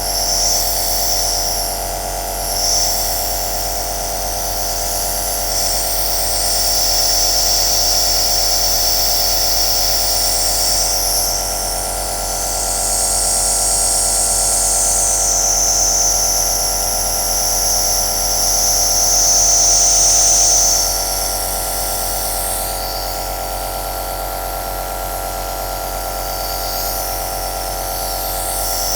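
Compressor nebulizer running: a steady motor hum under a high hiss of air and mist, the hiss growing stronger and weaker every few seconds.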